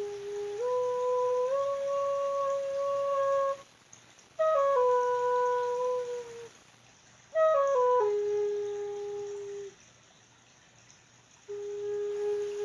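A flute-like wind instrument playing a slow tune in short phrases of stepped, slurred notes, the first phrase rising, the next two falling, and a rising one starting near the end, with brief pauses between.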